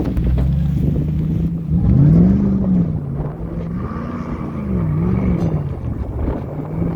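Off-road vehicle engine revving up and down in repeated surges, loudest about two seconds in.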